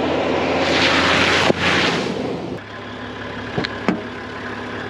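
Toyota Land Cruiser HZJ79's six-cylinder diesel engine running as the vehicle drives. A loud rushing noise lasts for about a second and a half near the start, and a few sharp clicks come later.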